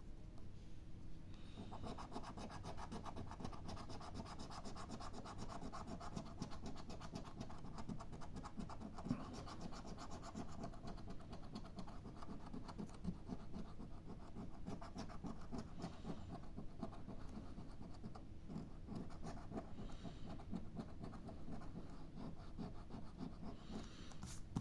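Scratch-off lottery ticket being scratched: a fast, steady run of small scraping strokes rubbing the coating off the card, starting about a second in.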